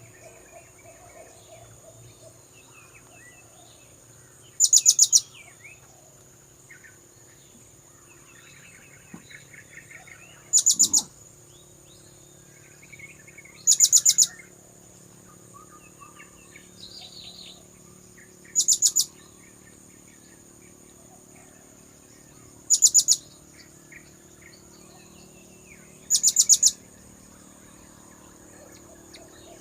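Blue-crowned hanging parrot (serindit) calls used as a bird lure: short bursts of rapid, very high-pitched notes, about half a second each, repeated six times at irregular gaps of a few seconds.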